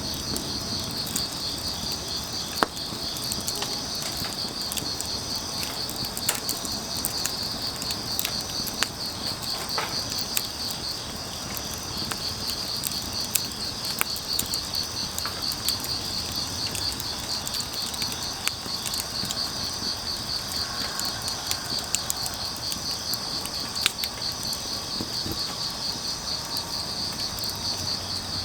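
Crickets chirring steadily in a fast pulsing trill, over a wood fire crackling with scattered sharp pops and snaps.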